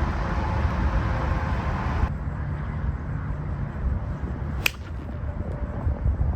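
A single sharp click of a golf club striking the ball, a little past the middle. Wind buffets the microphone as a steady low rumble throughout.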